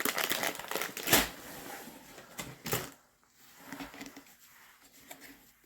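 Plastic snack bag of pretzels crinkling and rustling as it is handled, dense crackling for about three seconds with a couple of louder crunches, then fainter handling noises.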